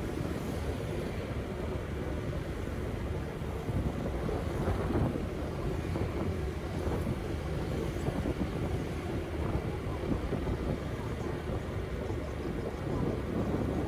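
Steady city street traffic ambience: a continuous low rumble of passing vehicles, with faint voices mixed in.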